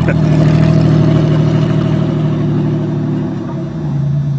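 Buick car engine running steadily as the car drives off, its pitch dropping slightly about three and a half seconds in.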